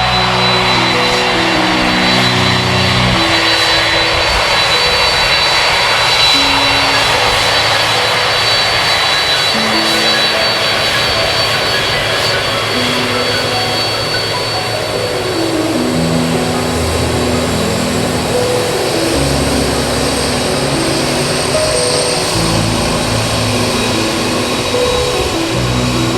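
Jet engines of a Boeing 767 airliner running: a loud steady rush with a thin high whine that fades about halfway through. Background music with sustained low chords plays underneath.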